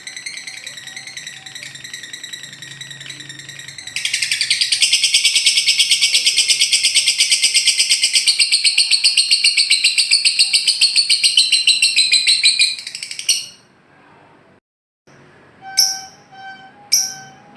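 Lovebird singing its long continuous 'ngekek' chatter: a fast, high-pitched run of rapid notes that turns much louder about four seconds in and stops abruptly after about nine seconds. After a short gap, sharp bird calls come about once a second.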